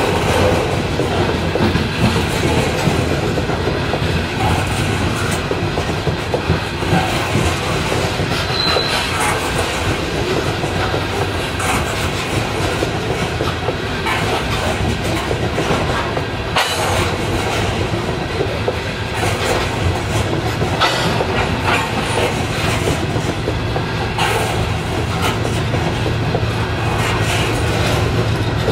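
A freight train of steel open-top hopper cars rolling past close by: a steady rumble of wheels on rail, with scattered clacks and a brief high wheel squeal about eight seconds in. A low hum grows louder over the last few seconds.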